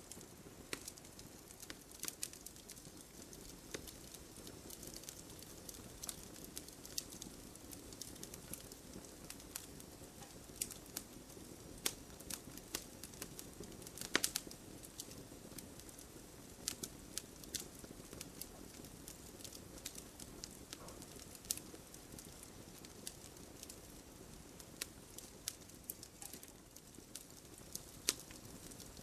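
Wood fire burning in a fireplace: a steady low hiss with irregular sharp crackles and pops, one louder pop about halfway through.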